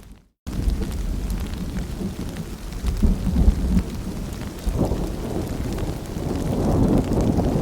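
Steady rain with low, rolling thunder rumbling underneath, swelling louder near the end. The sound cuts out for a moment just after the start.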